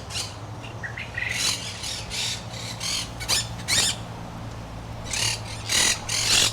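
Parrots squawking in an aviary: a series of short, harsh calls, about eight of them, some overlapping, over a steady low hum.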